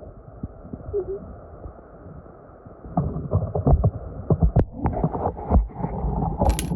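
Muffled underwater sound of creek stones and gravel knocking and clacking together as rocks are shifted in a creek-bed crevice. The knocks come thick and fast from about three seconds in, with one sharp click near the end.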